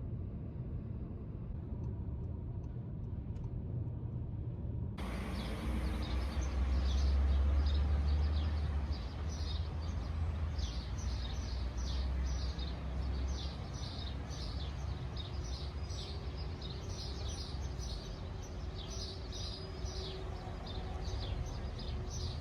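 A low, steady rumble of vehicle road noise. About five seconds in it cuts abruptly to outdoor ambience: many small birds chirping rapidly and constantly over a traffic rumble that swells for a few seconds.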